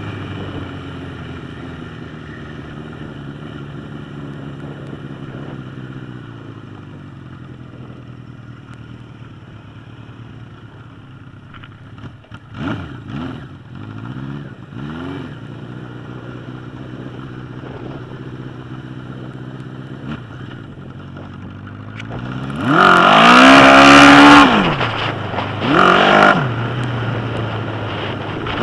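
1981 Suzuki GS1000's straight-piped inline-four motorcycle engine running steadily, with a few short throttle blips past the middle. Near the end it is revved hard, rising and falling (the loudest part), then revved again more briefly.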